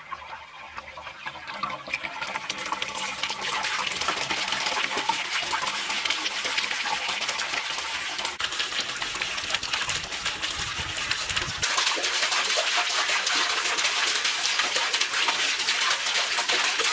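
Water running and splashing steadily, swelling over the first few seconds and growing brighter about twelve seconds in.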